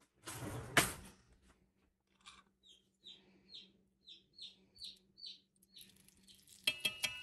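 A short rustle, then a bird chirping about ten times in a quick, even string. Near the end a metal utensil clinks against the cast-iron skillet as a pat of butter goes into the hot grapeseed oil and starts to sizzle.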